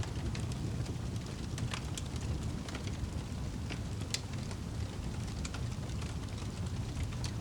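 Wood fire crackling in a fireplace: irregular sharp pops and snaps over a steady low rumble of the burning fire, one louder pop about four seconds in.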